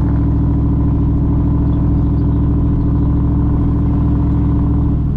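Straight-piped pickup truck engine and exhaust droning steadily while driving, a constant low note. Near the end the pitch changes suddenly, as at a gear change.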